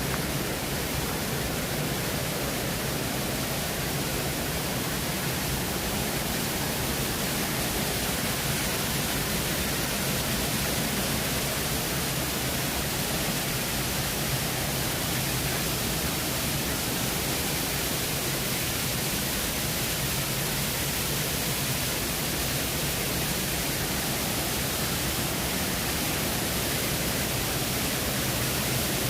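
Waterfall cascades rushing, a steady, even hiss of falling water.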